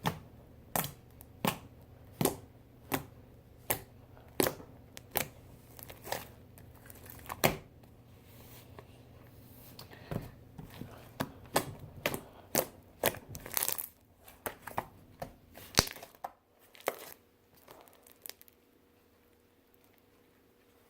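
Sticky homemade slime being pressed and pulled on a table, giving sharp pops about every three-quarters of a second, then a quicker run of pops and crackles that stops about sixteen seconds in.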